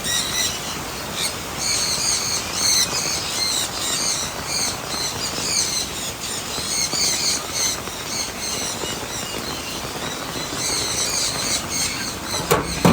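Hard rain falling steadily, with a flock of aviary birds chirping in quick runs of short, high calls over it. A sharp knock comes near the end.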